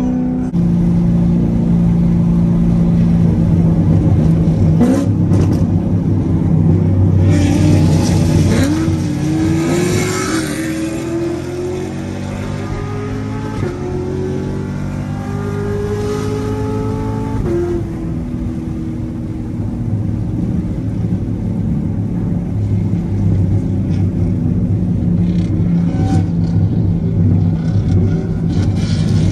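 C7 Corvette's V8 engine heard from inside the cabin at highway speed, its pitch rising several times through the middle as it accelerates through the gears, then settling to a steady drone near the end.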